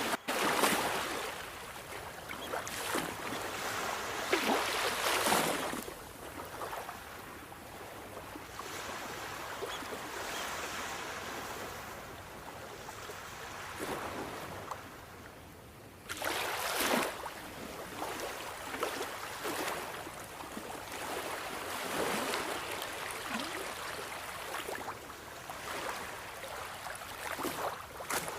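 Sea waves washing onto a shore, swelling and fading in surges. The strongest surges come right at the start, around 5 seconds in, and about 16 seconds in, where the sound comes in suddenly.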